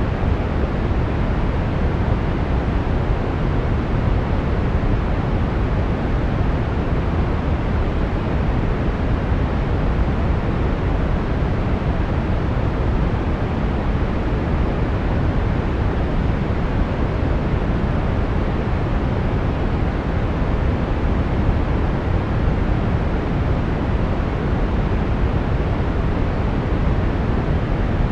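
Steady brown noise: an unchanging deep hiss, strongest in the bass and fading toward the highs.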